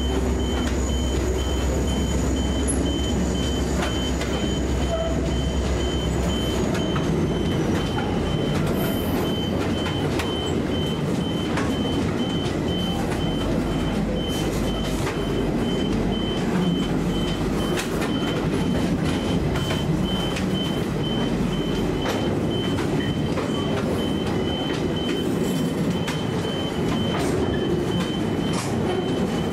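Freight train of hopper wagons rolling past: a steady rumble of wheels on rail with scattered clicks. A low hum fades out about seven seconds in, while a thin high whine slides down and fades at about the same time. A high, evenly pulsed beep sounds over the rumble.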